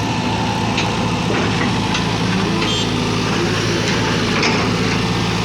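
Excavator's diesel engine running steadily, with a few faint short ticks over it.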